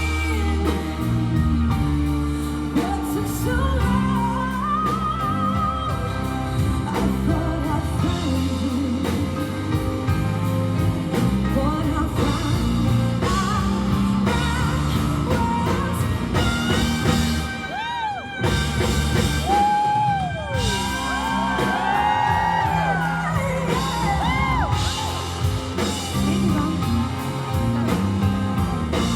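A female lead singer sings a pop-rock song live with a full band behind her, with guitar in the mix.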